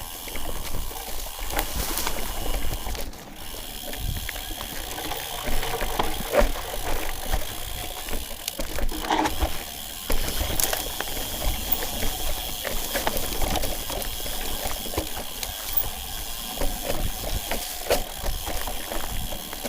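Irregular footsteps and scuffs on a rocky trail, with wind rumbling on the microphone.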